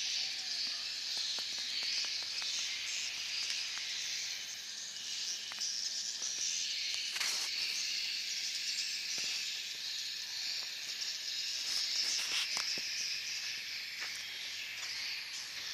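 A dense, steady twittering chorus of many edible-nest swiftlets, their high chirps blending into an unbroken hiss-like wash, with a few faint clicks.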